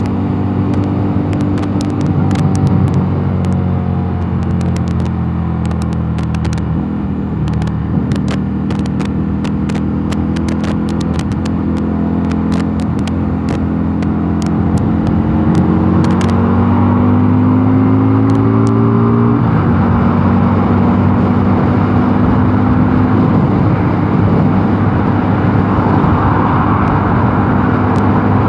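Mondial Nevada 250 motorcycle engine running under way. Its note climbs steadily as it accelerates, drops suddenly about two-thirds of the way through at an upshift, then holds steady at cruise. Scattered sharp clicks are heard through the first half.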